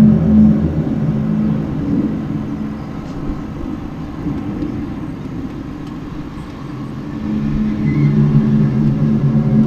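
A strange low droning hum outdoors, made of several steady low tones over a rumble. It is strong at first, fades down through the middle, then swells back about three-quarters of the way in. This is the unexplained 'strange sound' the recorder has been hearing every ten minutes to half an hour.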